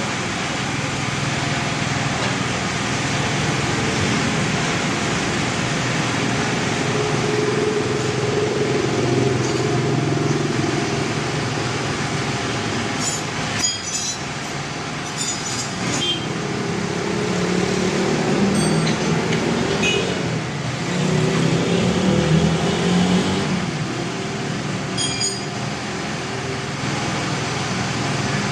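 Vehicle engine and road noise: a steady hiss with a low rumble that swells and fades twice, and a few light clicks.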